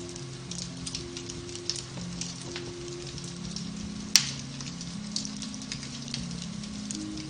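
Beech-wood fire crackling in a fireplace, with many small pops and one sharp, loud pop about four seconds in. Under it, soft piano-based music holds slow, low chords.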